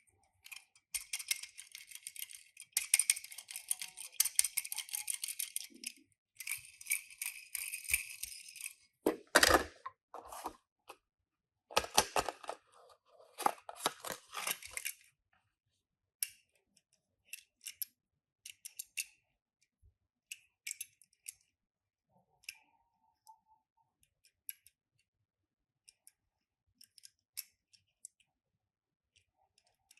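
Toy-car packaging being handled and opened, crinkling in bursts for the first fifteen seconds, with one knock about nine seconds in. After that come scattered light clicks and taps.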